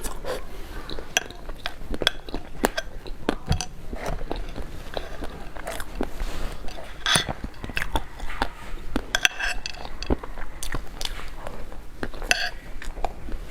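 Close-up sounds of a person eating: biting and chewing, with many wet mouth clicks and smacks.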